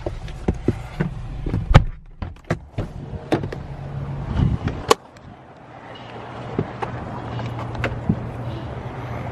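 A car door and a baby car seat being handled in a parked car: a string of clicks and knocks, the loudest about two seconds in and a sharp click about five seconds in, over a low steady hum.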